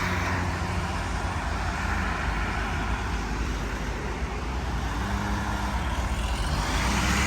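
Street traffic: motor vehicles running and passing, a steady hum of road noise with low engine tones.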